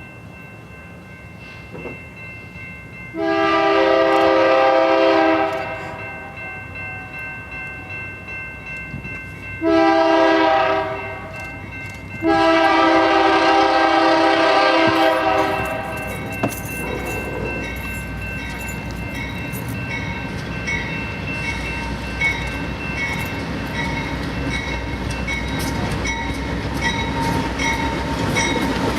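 A train's multi-note air horn sounds three blasts, long, short, long. About halfway through, the train rolls past with a steady rumble and an evenly repeating high clicking.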